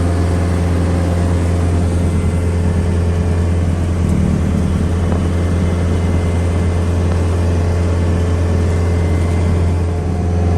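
Tractor engine running steadily while driving its PTO snowblower, a loud even drone with a thin steady whine above it, heard from inside the tractor cab.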